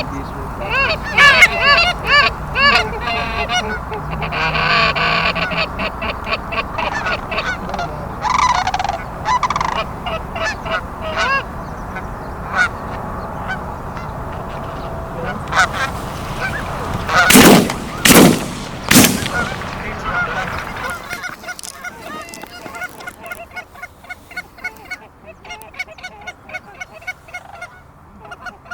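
Geese honking steadily as a flock works over the decoys, broken about two-thirds of the way in by three quick shotgun shots less than a second apart; fainter honking goes on afterwards.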